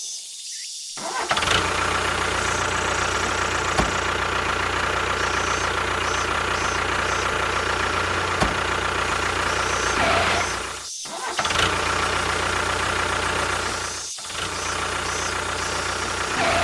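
A small engine or motor runs steadily, with a constant low hum under a dense mechanical clatter. It starts about a second in and cuts out abruptly twice in the second half.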